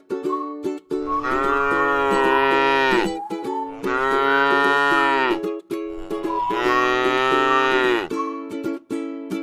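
A cow mooing three times, each long moo lasting about two seconds and dropping in pitch at the end, over background music with plucked strings.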